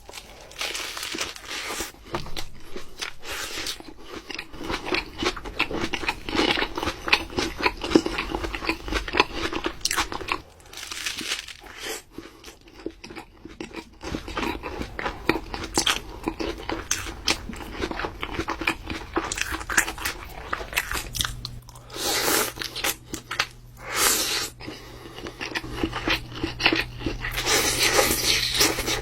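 Close-miked eating of a sandwich: crunchy bites and chewing, with many crisp crackles in quick succession and a few louder crunching stretches near the end.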